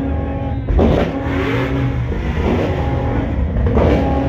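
Car engines revving and accelerating, the pitch rising several times, loudest just under a second in.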